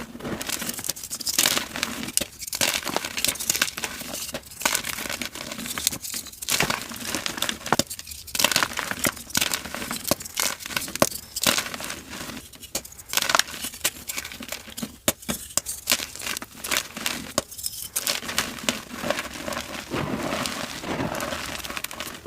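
Dyed gym chalk being crumbled and crushed close to the microphone: a dense, dry crackling crunch with brief lulls every couple of seconds. Near the end it turns into a denser, steadier rustle of powder.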